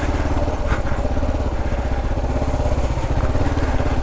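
Kawasaki KLR650's single-cylinder four-stroke engine running steadily at low speed on a trail, its firing pulses even throughout.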